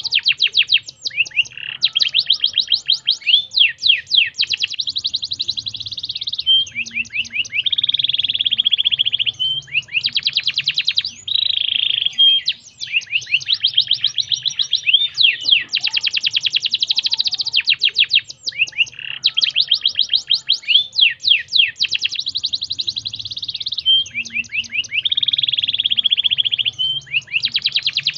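Domestic canary singing without pause: long runs of fast trills and rolls, phrase following phrase. The same run of phrases comes round again about every 13 seconds.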